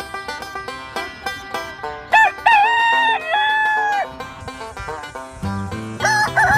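Upbeat banjo music with quick plucked notes, over which a rooster crows loudly about two seconds in and starts crowing again near the end.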